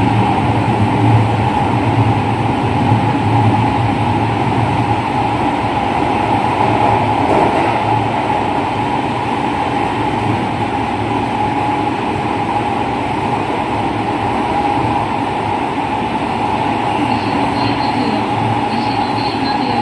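Running noise inside a JR West 207 series electric train at speed: a steady rumble of wheels on rails with a steady whine from its traction motors, still the original motors. A faint high-pitched squeal comes in and out near the end.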